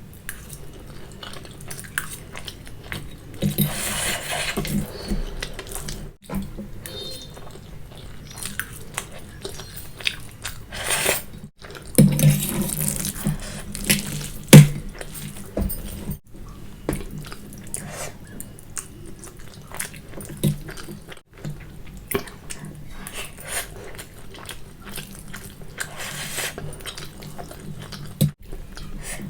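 Close-up eating sounds of Maggi instant noodles: wet slurps and chewing that come and go, with a few sharp clicks, the loudest about fourteen and a half seconds in.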